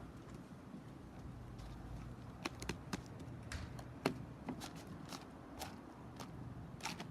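A series of short, light clicks and taps at irregular intervals, about a dozen, starting a couple of seconds in, over a low steady background hum.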